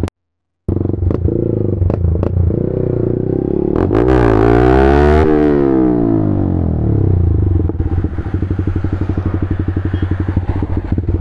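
Yamaha MT-15 motorcycle's single-cylinder engine running through an aftermarket full-system exhaust while riding. The revs climb about four seconds in, peak a second later and drop back to a steady cruise.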